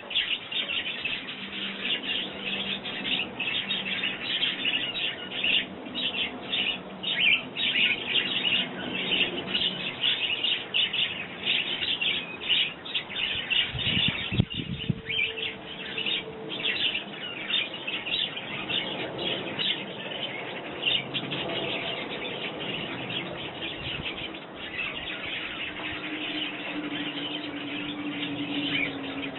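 Sparrows chirping busily and continuously, many short overlapping chirps. A brief low rumble about halfway through, and a faint low hum near the end.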